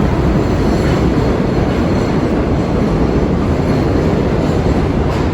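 A subway train running through the station, a loud, steady noise with no breaks.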